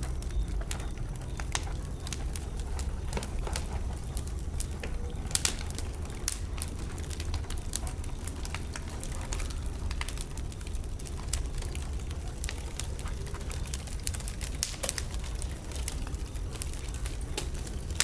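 Wood bonfire burning, with irregular sharp pops and crackles over a steady low rumble; a quick cluster of louder pops comes about five seconds in.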